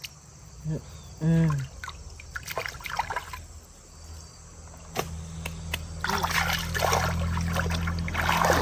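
Shallow pond water trickling and splashing as it is disturbed by hand, growing louder in the second half. There is a short voice sound about a second in, and a low steady hum underneath in the second half.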